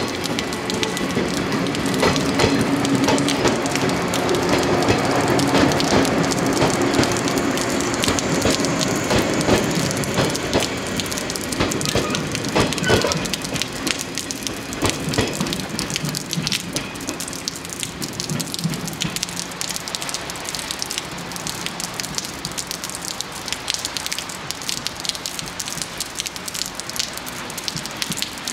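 Electric train running past on rain-wet track, with a few steady tones under the noise of its passing. The train sound fades over the first dozen seconds, leaving steady rain falling on the surroundings.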